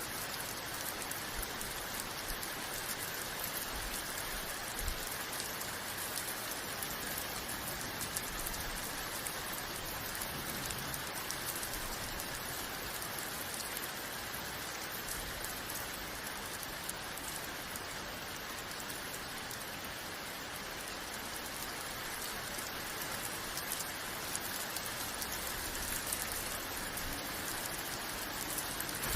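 Steady rain falling on a surface, a dense even patter with scattered individual drop ticks.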